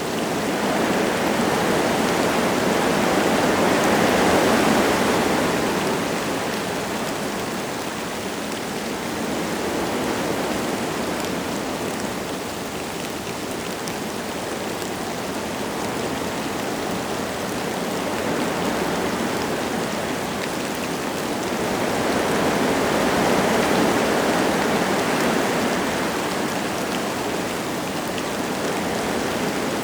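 Wind gusting through forest trees with light rain falling, a steady rushing hiss. The rush swells twice, about four seconds in and again a little past twenty seconds.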